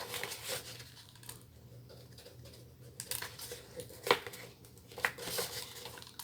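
Small handling noises from craft work with foam and plastic pieces: soft rustling and light taps, with one sharper click about four seconds in.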